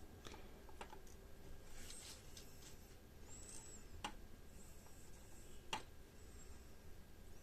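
A few faint, sharp clicks and taps, spaced irregularly, from small electronic components and the circuit board being handled on the workbench during kit assembly.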